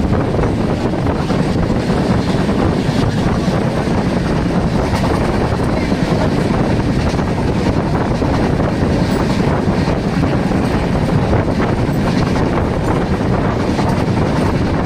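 Steady running noise of a moving passenger train, a continuous rumble and rush of the wheels on the track, heard from an open window with wind buffeting the microphone.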